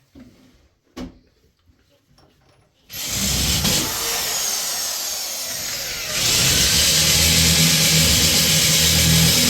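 A power drill starts about three seconds in and runs steadily, getting louder from about six seconds in, as it drills a hole to mount a wall-mounted water heater. A single knock comes about a second in.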